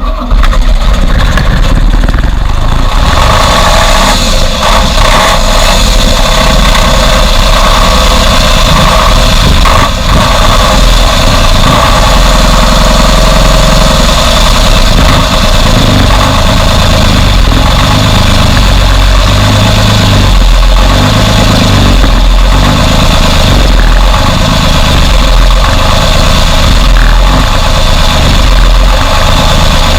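Large diesel engine running loudly and steadily at idle, just after a cold start; it catches at the very start and settles into an even idle within a few seconds.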